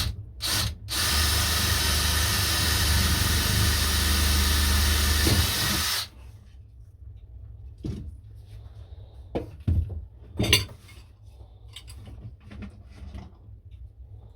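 Handheld electric power tool: two brief blips, then it runs steadily for about five seconds and cuts off. A few knocks and clatters follow.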